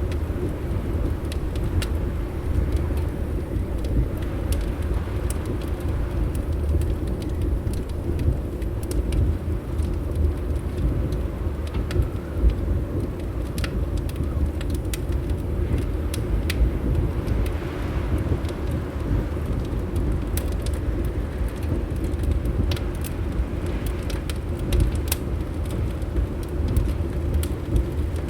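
Wood fire in a fireplace crackling, with scattered sharp pops over a steady low rumble of wind.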